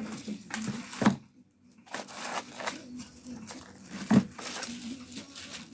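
Packaging of a new soldering iron being handled and torn open, rustling, with two sharp knocks about one second and four seconds in.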